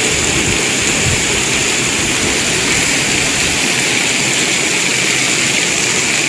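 Heavy rain coming down: a steady, loud rush of falling water.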